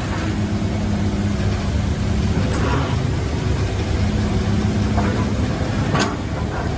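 Heavy vehicle engine running steadily, with three sharp knocks or clanks in the last two seconds.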